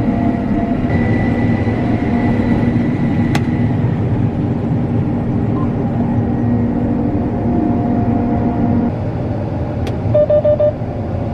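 Combine harvester running steadily while cutting damp wheat at a slow ground speed. Four short electronic beeps sound a little over ten seconds in.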